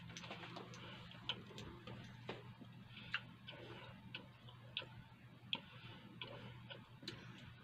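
Someone chewing a mouthful of bread with the mouth closed, making soft, irregular mouth clicks, over a low steady hum.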